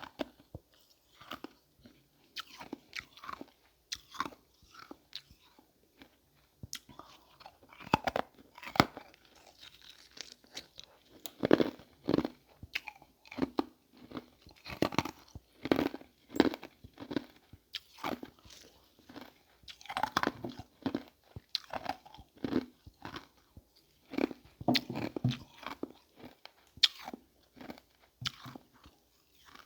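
Ice being bitten and chewed: a steady run of irregular crunches, with louder bursts of bites every few seconds.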